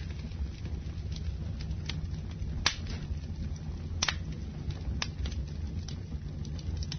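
Campfire burning: a steady low rumble of the flames with scattered crackles and sharp pops of the wood, the loudest pops about two and a half and four seconds in.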